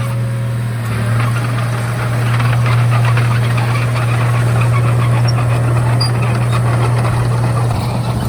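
Komatsu D31A bulldozer's diesel engine running steadily under a constant low hum, with a busy rattle of metal clatter over it.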